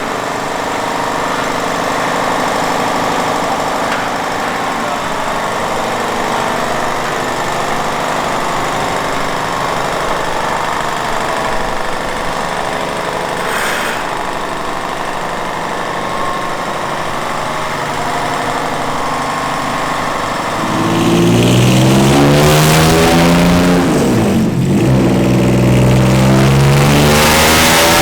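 A race car's V6 engine (a Honda J-series swap) runs at a steady speed for about twenty seconds. It then opens up much louder and revs hard, its pitch climbing, dropping sharply once as it shifts, and climbing again.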